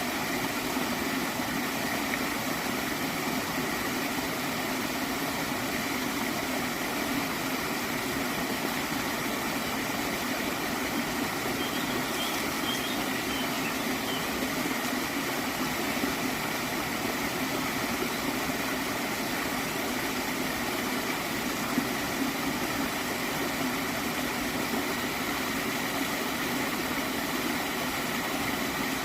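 Gently flowing stream of water gurgling with a steady, unchanging rush.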